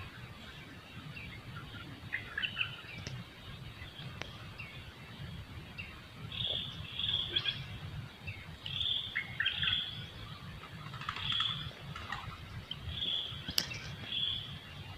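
Forest birds chirping: many short, repeated high calls over a steady low rumble. There is a single sharp click near the end.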